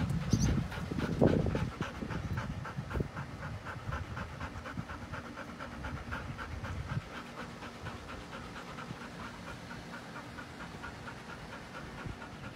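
Golden retriever panting quickly and evenly. Louder, low-pitched noise in the first two seconds.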